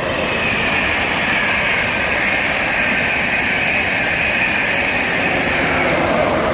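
A fast train passing through the station without stopping: a loud, steady rush of wheels and air that builds in just before and holds throughout.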